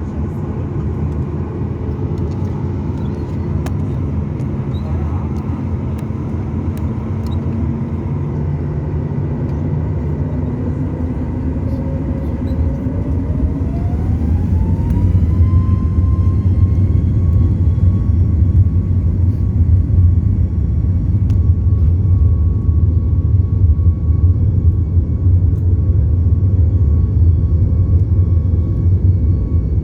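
Boeing 737 MAX 8's CFM LEAP-1B turbofan engines spooling up to takeoff thrust. About halfway through, a whine rises steeply in pitch and then holds steady, while a low rumble grows louder and stays strong through the takeoff roll.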